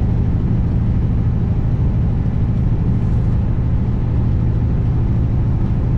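Diesel engine of a 2021 Kenworth W900 semi truck running steadily on the road: an even, low drone that holds the same pitch and level throughout.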